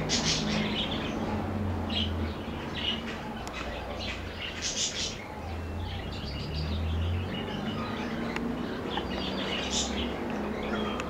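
Birds chirping in short bursts every second or so, over a low hum.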